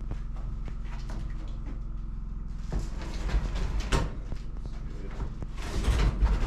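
Scraping and rustling of something heavy being handled and shifted, with a sharp knock about four seconds in and a louder stretch of scraping near the end, over a steady low hum.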